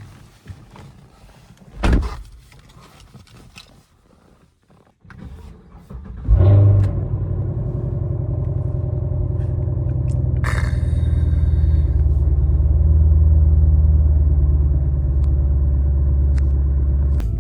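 A thump about two seconds in, then an eight-cylinder car engine starting about six seconds in with a loud flare before it settles into a steady, deep idle.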